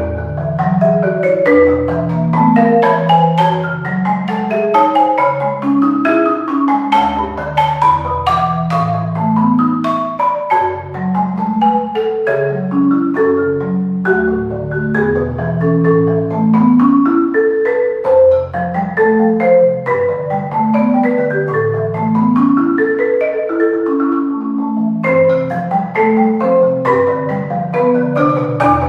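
Solo marimba playing fast, continuous runs of mallet strokes that sweep up and down the low and middle range, with the deep bass bars ringing on under the flurries.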